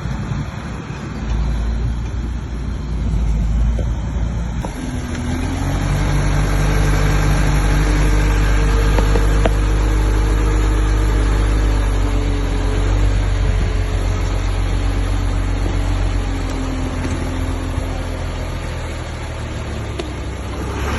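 Bulldozer's diesel engine working, a heavy low rumble. About five seconds in the engine note climbs and holds, then eases a little near the end.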